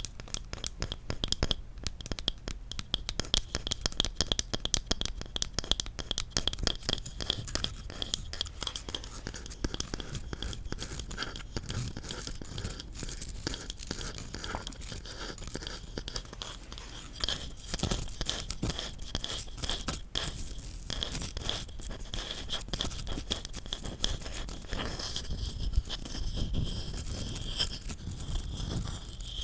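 Rapid tapping and scratching on wooden objects: a dense run of small clicks, with a few stronger knocks in the second half.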